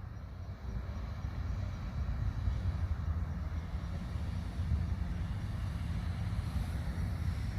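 Steady low rumble of noise, even in level, without any distinct events.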